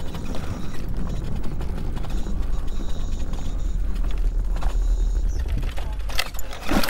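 Steady rattling and clattering of wheels rolling over a rough surface, with a continuous low rumble and a few sharp clicks near the end.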